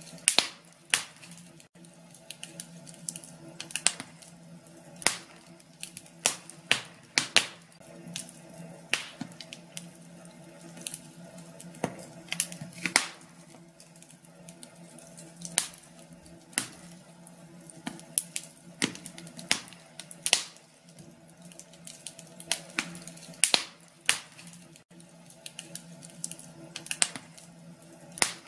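Wood fire crackling in a fireplace: sharp, irregular pops and snaps, a few every second, over a low steady hum.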